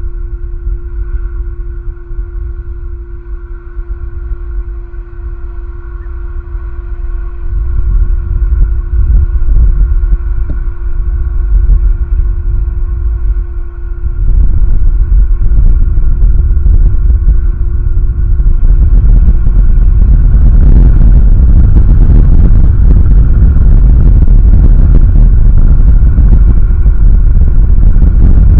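Wind buffeting the outdoor nest-camera microphone: a heavy, continuous low rumble that grows stronger about halfway through and again later on.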